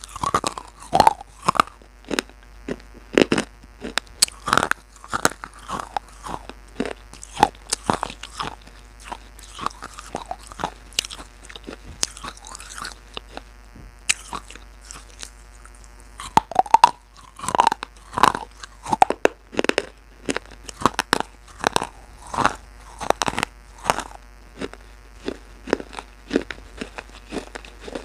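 Irregular crunching and crackling, several sharp crisp clicks a second, coming in uneven clusters.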